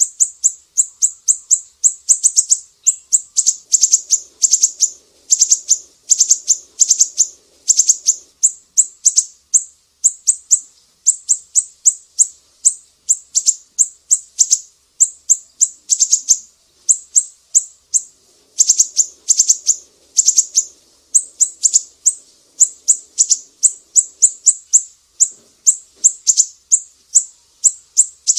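Sumatran siri-siri songbird singing: a rapid, high-pitched series of sharp chirping notes, repeated in quick runs of several notes a second with short pauses between runs.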